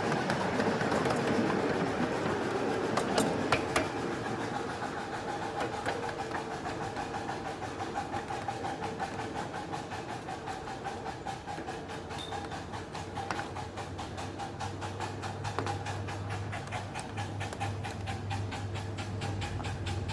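Ride-on miniature live-steam train running along its track: a steady running noise with wheels clicking evenly over the rail joints.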